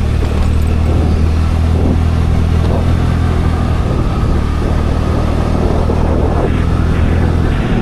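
Scooter engine running with a steady low hum while riding, under a constant rush of wind and road noise; the steady engine note drops away just before the end.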